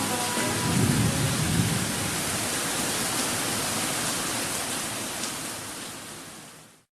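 Rain sound effect: a steady hiss of falling rain, with a low rumble about a second in, fading out near the end.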